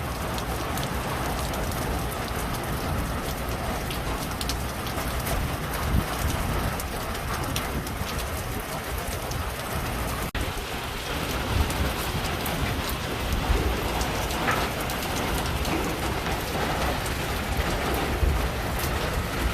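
Heavy hurricane rain falling steadily, a dense hiss of drops with a low rumble underneath.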